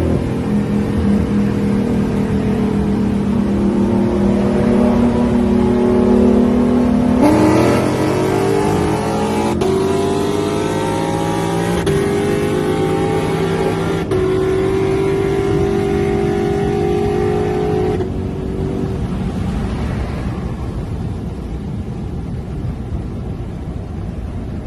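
V8 engines of a Lexus IS F and a Dodge Charger Scat Pack 392 in a roll race. They cruise steadily, then go to wide-open throttle about seven seconds in and pull hard, the pitch climbing and dropping back at each upshift, about three times. About eighteen seconds in they lift off and the sound dies down.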